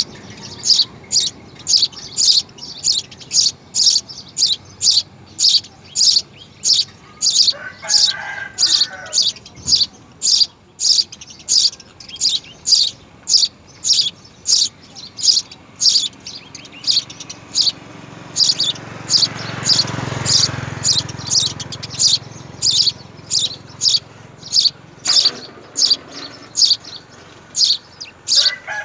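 A bird chirping over and over in short high chirps, about two a second, steady throughout. A low rumble swells up and fades away about two-thirds of the way through.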